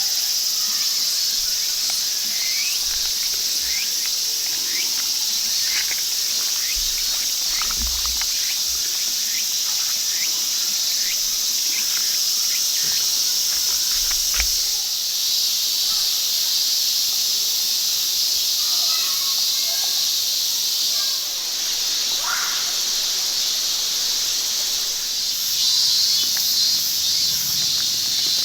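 Steady, high-pitched chorus of insects, such as crickets or cicadas, with short chirps scattered through the first half and a fast pulsing call coming in near the end.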